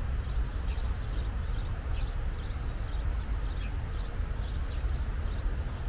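A small bird chirping over and over, short high notes about twice a second, over a loud, gusting low rumble of wind on the microphone.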